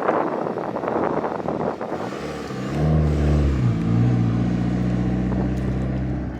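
A car engine running close by: a noisy rush at first, then from about two and a half seconds in a loud, low, steady engine note that dips briefly in pitch and then holds.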